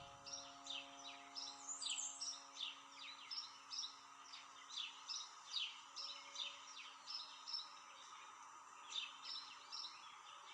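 Small birds chirping in rapid runs of short, high calls, thinning out about eight seconds in and picking up again near the end. A faint held low note fades away underneath.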